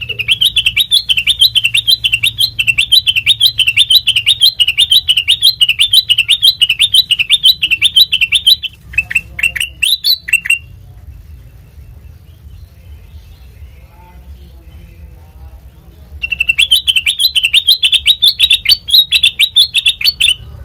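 Kutilang mas bulbul singing a fast, continuous string of high chirps. A few sharp falling notes break it off about halfway through, it goes quiet for about six seconds, then the chirping resumes near the end.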